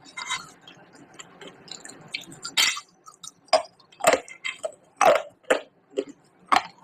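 Crunching as a person chews pieces of baked clay pot. There are softer crunches at first, then sharp, crisp crunches about twice a second from about two and a half seconds in.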